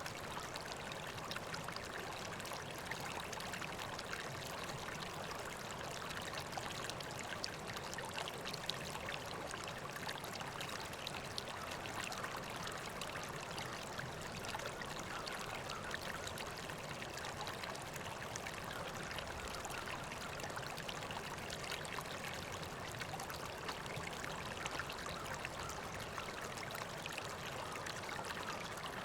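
River water flowing steadily: a continuous even rush with fine splashing and trickling.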